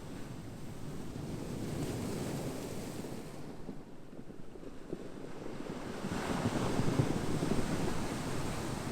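Ocean surf: waves washing in, swelling twice, the second surge louder.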